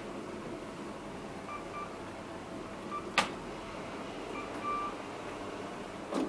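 Short electronic beeps, several in small groups at one pitch, typical of a KONE elevator's push buttons acknowledging presses, with one sharp click about three seconds in, over a steady low hum of machinery.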